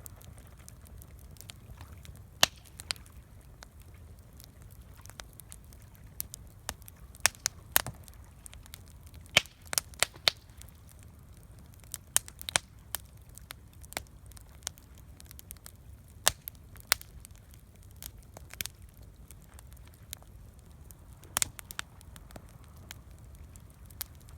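Wood campfire crackling: sharp, irregular pops and snaps, sometimes one and sometimes a quick pair, over a faint low rumble.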